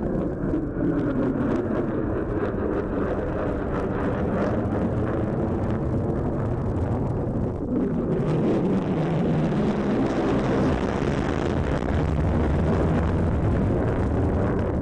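F-35A Lightning II fighter jet's single F135 afterburning turbofan engine, a loud continuous jet roar. Its pitch sweeps downward twice, near the start and again about halfway through, as the jet passes.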